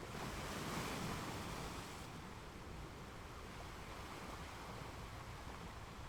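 Ocean waves on a beach: a wave washes in, rising to a hiss about a second in and easing off by two seconds, over a steady low surf rumble.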